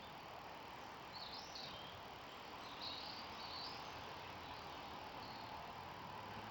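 Small birds singing short, chirping phrases a few times over steady outdoor background noise.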